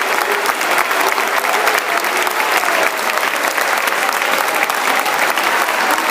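Football crowd in the stands clapping steadily, dense rapid hand claps with crowd voices underneath.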